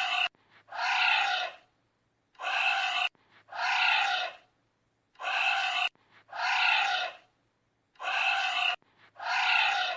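Anteater calls: breathy, noisy cries in pairs, each under a second long. About one pair every three seconds, repeating evenly, with some calls cut off abruptly.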